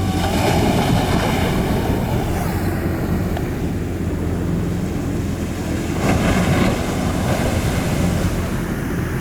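Ocean surf with wind buffeting the microphone and a steady low hum underneath; the wash swells briefly about half a second in and again about six seconds in.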